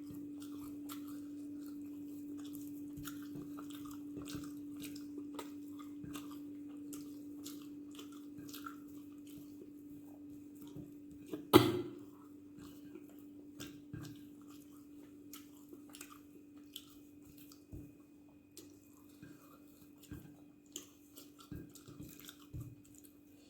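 A person chewing dosa with chutney and kuzhambu, with many soft wet mouth clicks. A single sharp knock comes about halfway through, and a steady low hum runs underneath.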